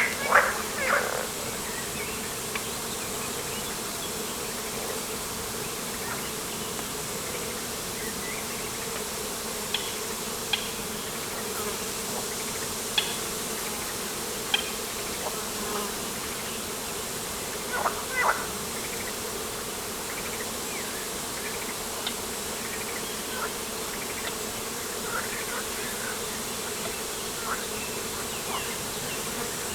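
Open-air ambience by the water: a steady soft hiss with a faint continuous hum, and scattered short bird calls over it. The loudest calls come in the first second and again about two-thirds of the way through.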